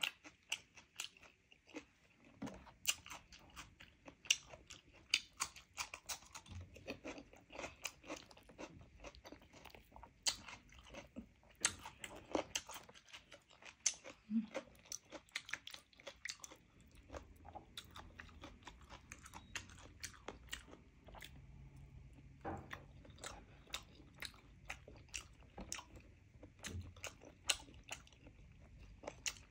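Close-miked chewing of roasted chicken: a dense run of quick, sharp wet clicks and crunches from the mouth, with the chicken being pulled apart by hand partway through.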